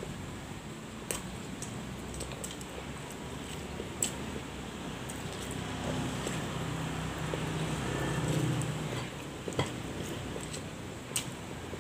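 Mouth sounds of a man chewing rice and meat eaten by hand, with a few sharp light clicks now and then and a low hum around eight seconds in.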